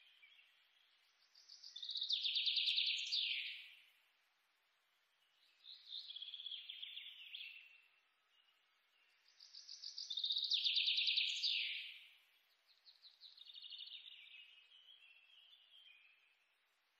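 Songbird singing: four rapid trilled phrases of about two to three seconds each, separated by short pauses. The first and third are the loudest, and several phrases slide down in pitch at their end.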